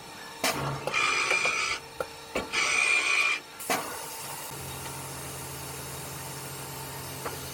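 Machinery: two short mechanical whirs, each under a second, with sharp clicks between them, then a steady low hum.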